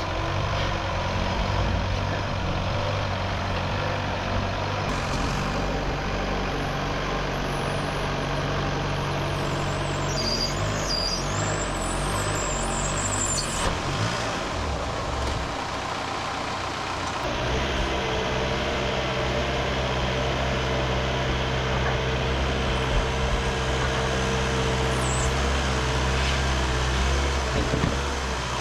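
Rock-crawling off-road rig's engine running steadily at low speed, with a steady whine joining in about halfway through.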